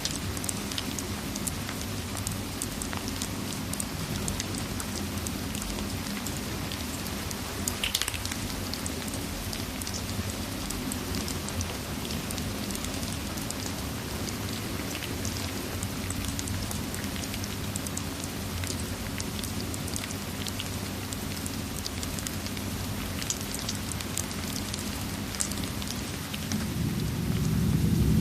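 Steady rain ambience with scattered sharp crackles and pops from a fireplace. Near the end, a low rumble of thunder swells up.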